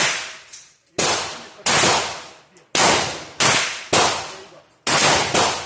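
Gunshots at a firing range: about eight sharp shots at uneven spacing, some close together, each ringing out for about half a second.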